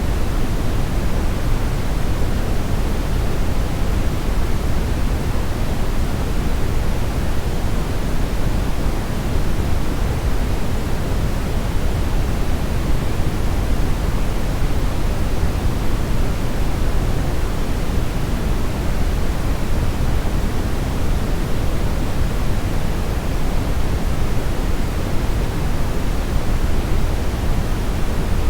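Steady brownish noise, a constant even hiss weighted toward the low end, with no changes or distinct events.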